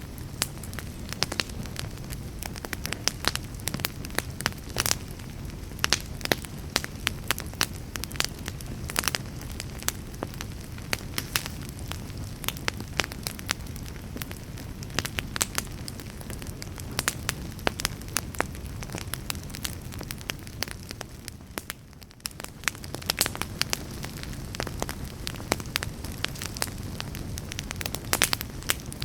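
Wood fire burning in a fireplace: a steady low hiss and rumble of burning logs with frequent sharp crackles and pops, easing into a brief lull about three quarters of the way through.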